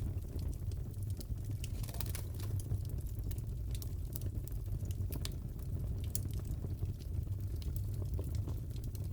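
Crackling fireplace: a steady low rumble of burning wood with scattered sharp pops and crackles.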